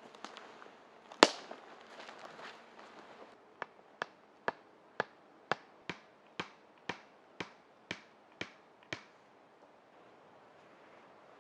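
A single sharp crack about a second in, some rustling, then about a dozen even knocks, roughly two a second, of a tool striking wood, as in chopping or driving a stake for a shelter frame.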